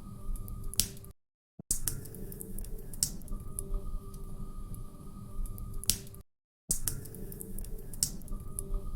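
Log fire crackling, with scattered sharp pops over a low steady rush of flame. The sound drops out to silence twice, each time for about half a second.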